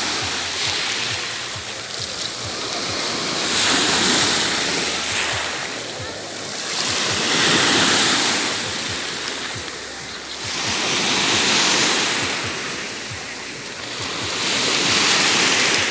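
Sea waves breaking and washing on the shore, the surf swelling about every four seconds, with wind buffeting the microphone.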